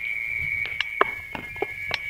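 Burning coconut coir crackling in a fireplace with about six sharp pops, the loudest about a second in, over a steady high whistle.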